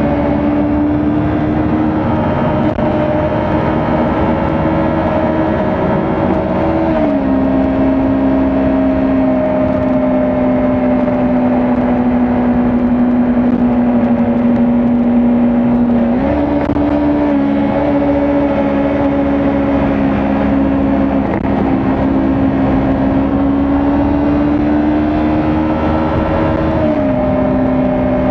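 Kawasaki Ninja 400 parallel-twin engine running under way at steady cruising revs. Its pitch drops suddenly about seven seconds in and again near the end, jumps up at about sixteen seconds, and creeps slowly upward in between.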